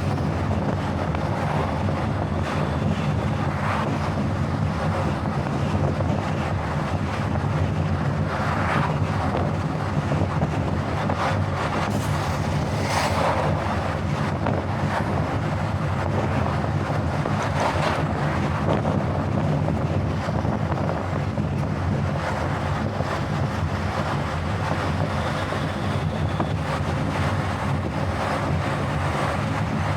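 Car driving on a highway: steady road and wind noise with a low rumble, and a brief louder whoosh about twelve seconds in.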